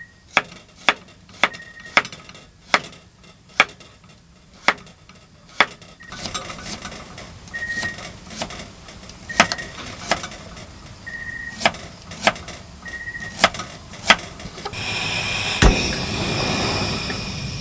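A series of sharp knocks and clinks at irregular spacing, about one every half second to second, some followed by a brief ringing tone. About fifteen seconds in they give way to a steady rushing noise, with one more loud knock.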